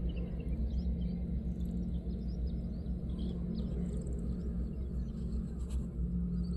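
A steady low rumble, with faint, short bird chirps scattered above it.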